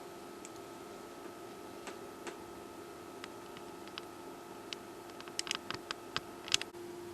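Sparse light clicks and taps over a steady electrical hum, with a quick run of clicks near the end.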